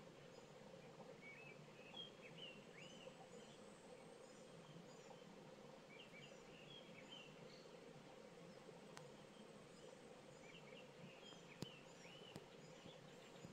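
Faint birds chirping at dusk in three short bouts of twittering, over a steady low hum. There are a couple of sharp faint clicks near the end.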